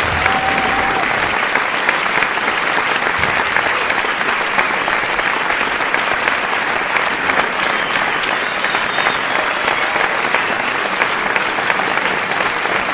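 Steady, dense applause from a crowd: many hands clapping at once, with no pause.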